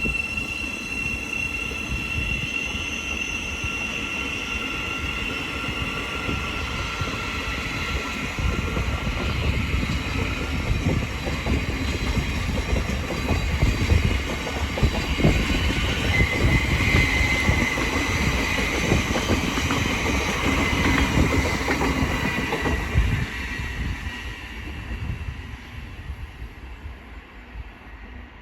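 Thameslink Class 700 electric multiple unit pulling away from the station, its traction motors whining as it accelerates and its wheels clattering over the rails. It grows louder through the middle and fades away after about twenty-three seconds.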